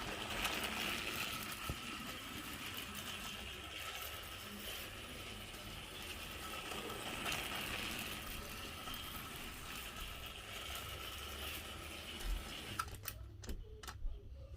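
Small electric motors of battery-powered Thomas & Friends All Engines Go motorized toy trains running with a steady buzzing whir. The whir stops about 13 seconds in, followed by a few sharp clicks.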